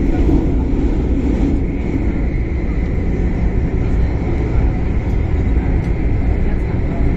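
MTR Tung Chung line CAF train running, heard inside the carriage: a steady rumble of wheels on track with a faint steady high tone over it.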